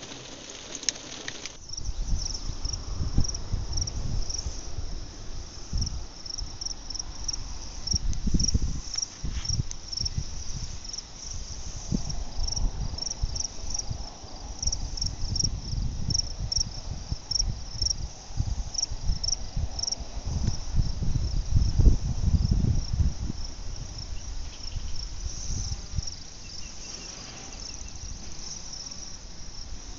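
Crickets chirping steadily in a high, even rhythm of about two to three chirps a second. Under them runs a low, gusting rumble that comes and goes.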